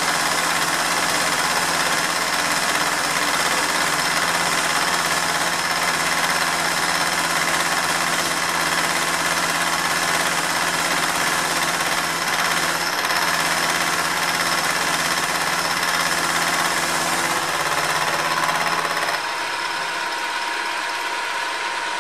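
Hare and Forbes HM48 milling machine running steadily, taking a light cut on a steel part. About nineteen seconds in the deeper hum drops away, leaving a lighter steady whir.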